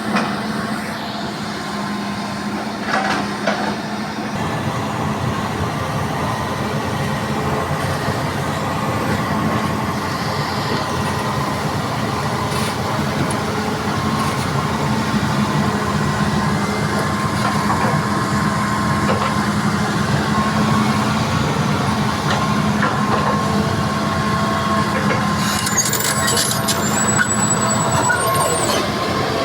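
Heavy diesel earthmoving machinery, an excavator with dump trucks, running steadily with a constant engine hum that grows a little louder over time. There are a few knocks about three seconds in and a brief high-pitched sound near the end.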